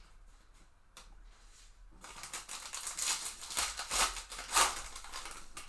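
A foil trading-card pack wrapper being torn open and crinkled by hand: a click about a second in, then a dense run of crackling from about two seconds in.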